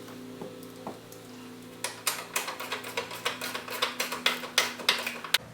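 Rapid ratchet-wrench clicking, about seven clicks a second, from about two seconds in until near the end, while a bolt is tightened on a subwoofer mounting bracket. A steady low hum runs underneath.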